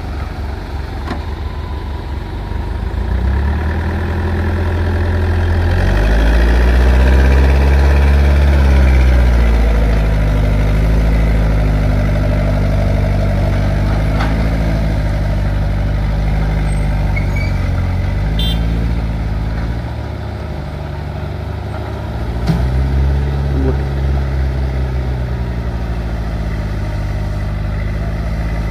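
Heavy diesel engine working under load, its speed rising and falling repeatedly over a steady low rumble.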